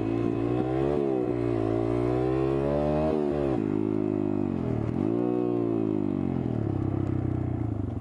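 DHZ Outlaw 140 pit bike's 140cc engine, on a loud aftermarket exhaust, revving up and dropping back several times. It settles to a steady lower note near the end.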